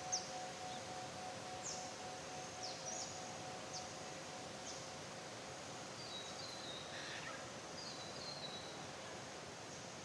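Songbirds calling in forest ambience: scattered short, high, quickly falling chirps and, a little past halfway and again near the end, a brief descending stepped trill, over a steady background hiss. A faint held ringing tone fades out in the first few seconds.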